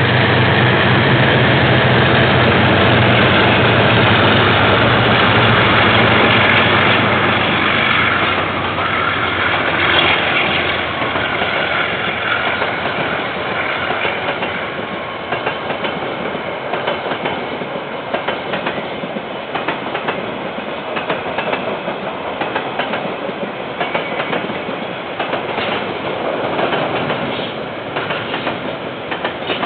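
A KiwiRail train passing close by: the diesel locomotive's engine hum is loud for the first seven or eight seconds, then the wagons roll past with a continuous rumble and rapid clacking of wheels over the rail joints.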